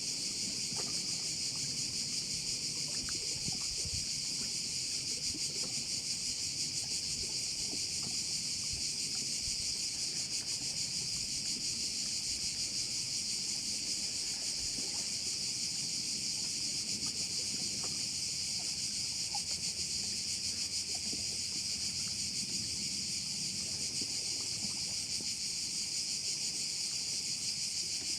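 Dense chorus of crickets chirring without a break, a steady high buzz with a fine rapid pulse in it. A faint low rumble lies underneath.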